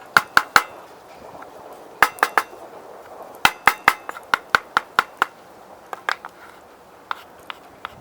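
Sharp clinks of a cooking utensil striking cookware in short runs: three quick ones, three more, then a faster run of about eight at roughly five a second, thinning to single taps near the end.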